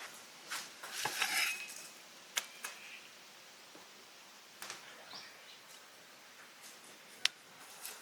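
Utensils clinking against cookware: a brief clatter about a second in, then a few single sharp clinks spaced a couple of seconds apart, the sharpest near the end.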